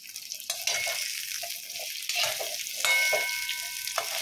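Halved potatoes sizzling in hot oil in a steel kadhai, stirred with a perforated metal spoon that scrapes the pan now and then. A brief thin ringing tone sounds about three seconds in.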